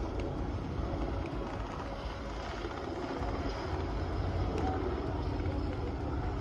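Steady low rumble of vehicle engine noise, with no distinct events.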